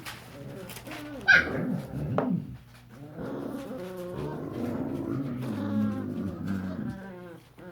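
Five-week-old puppies whining and yipping, with one sharp, high yelp about a second in.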